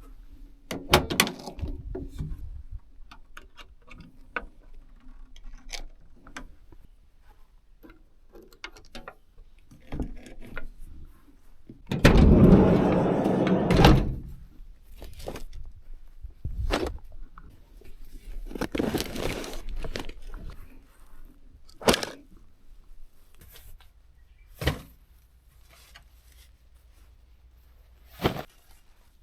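Scattered knocks and thuds of things being handled, with a loud noisy stretch of about two seconds near the middle and a shorter one later.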